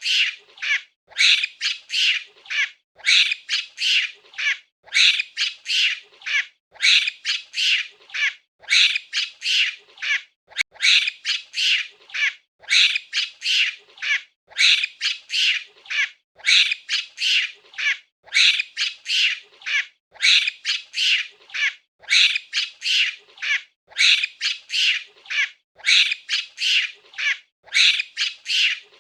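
A monkey calling: short, high-pitched squawking calls in quick groups of two to four, repeating about once a second without a break.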